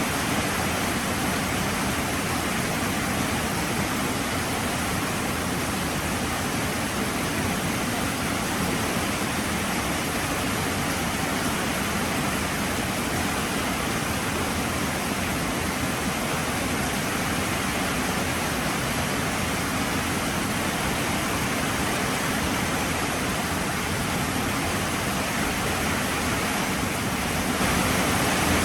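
Heavy rain falling in a steady, even hiss, growing a little louder near the end.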